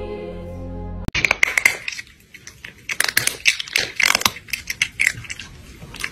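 Music with held tones stops abruptly about a second in, followed by loud, irregular crunching of crisp snacks being chewed.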